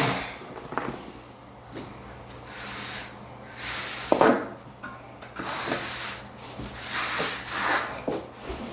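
A float scraping and rubbing across dry-pack shower pan mortar in irregular strokes, packing and smoothing the mud.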